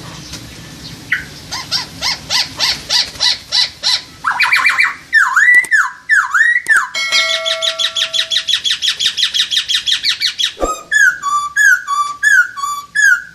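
Loud, varied songbird song of the kind played as a lure to train white-rumped shamas. A run of sharp repeated notes, a few a second, gives way about four seconds in to looping whistled slurs, then a long rapid trill, and from about the eleventh second a phrase of down-slurred whistles repeated four times.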